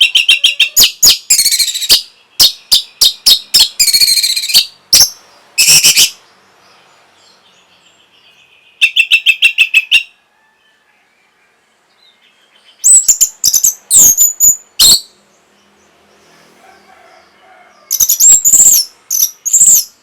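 Orange-headed thrush singing: loud phrases of quick, high, clear notes and trills, each phrase lasting a second or two, with short pauses between them.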